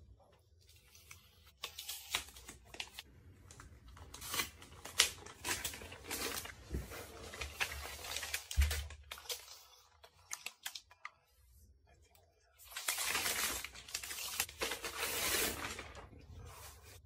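Hands working on an all-in-one PC's parts during a screen replacement: scattered clicks and handling noise, with two longer stretches of rustling, tearing-like noise, the second from about 13 to 16 seconds.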